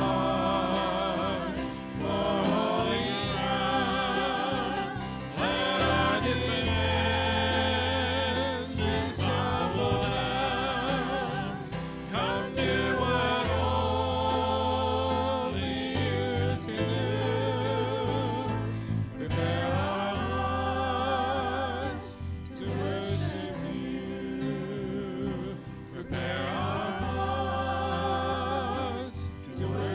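Gospel-style worship song: voices singing with vibrato over instrumental accompaniment with long-held bass notes.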